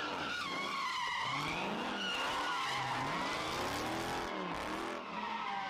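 Car engine revving up and down over and over while the tyres squeal and skid, as in a burnout or donuts.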